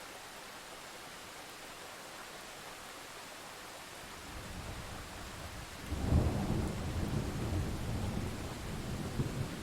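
Steady rain hiss of a thunderstorm, with thunder rolling in: a low rumble builds from a little under halfway through, swells into a loud clap about six seconds in, and keeps rumbling to the end.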